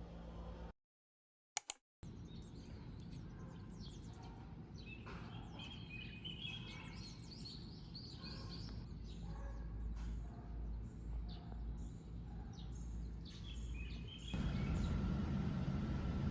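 Small birds chirping and calling in short, quick notes over a low steady background rumble. A louder steady noise takes over near the end.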